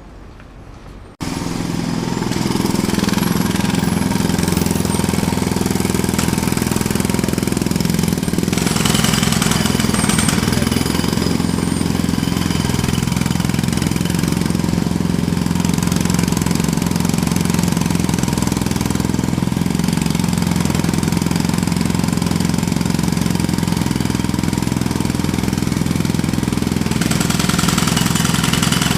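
Jackhammer starting abruptly about a second in, then hammering loud and steady in a fast, continuous rattle of blows.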